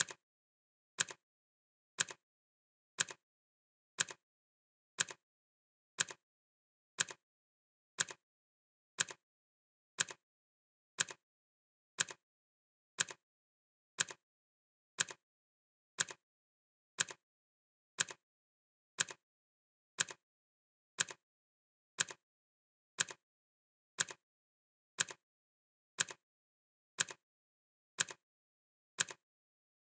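Clock ticking sound effect: one sharp, even tick every second, with dead silence between the ticks.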